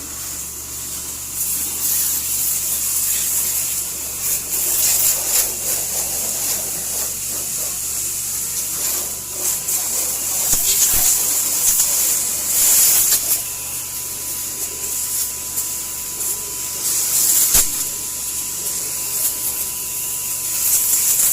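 High-pressure water spraying from a coin-operated car wash hose: a loud hiss that surges and eases as the spray is moved, over a steady low hum from the machine's pump.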